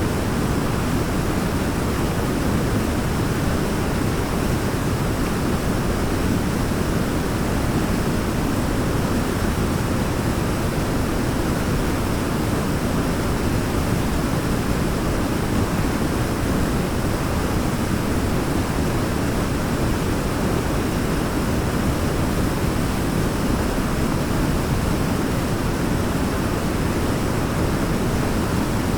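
Steady, unchanging rush of a waterfall, deep and full, with no separate splashes or other events.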